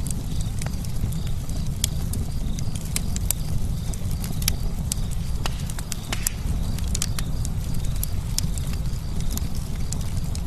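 Campfire crackling: frequent, irregular sharp pops and snaps over a steady low rumble from the burning fire.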